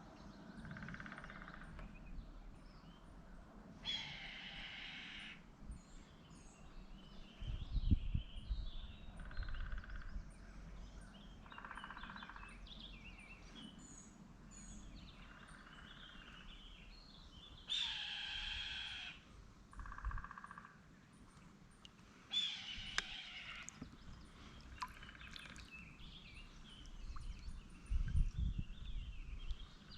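Hoarse, drawn-out bird screams, three loud ones and several fainter ones, each about a second long, which the angler takes for a red-tailed hawk. Smaller birds chirp steadily in the background.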